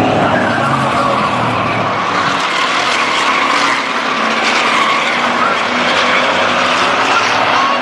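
Racing trucks' engines running loud as a pack laps a short oval, the engine pitch rising and falling as they pass.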